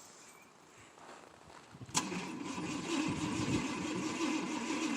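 Cold start of a 1988 GMC Sierra's 5.7 L 350 small-block V8 in extreme cold: a click about two seconds in, then the starter cranking the engine over in a fast, steady pulse.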